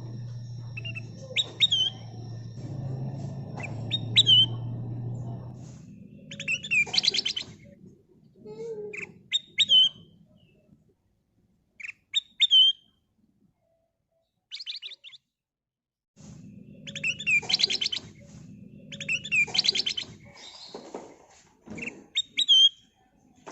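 Kutilang emas (a bulbul) singing: short sweeping whistled notes and quick runs of chirps, with pauses between phrases and a silent gap past the middle. A low steady hum sits under the song at the start and again later on.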